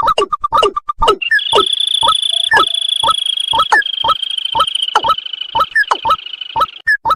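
Recorded rail call played as a bird lure: a rapid run of short croaking notes, each falling in pitch, about three a second. A high, steady buzzing trill sounds over them from about a second in until near the end.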